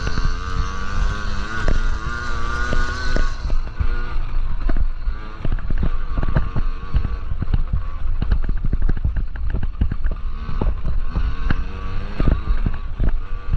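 Yamaha PW50 49cc two-stroke minibike engine revving up and fading away about three seconds in, followed by a steady low rumble with many short knocks and crackles.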